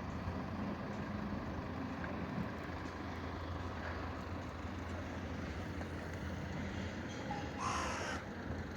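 Steady low rumble of distant traffic or machinery, with a bird cawing once near the end.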